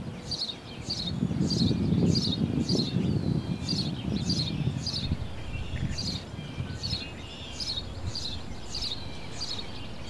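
A small bird, not the egret in view, repeats short high chirps that fall in pitch, about two a second. Under them runs a low rumble, loudest in the first half.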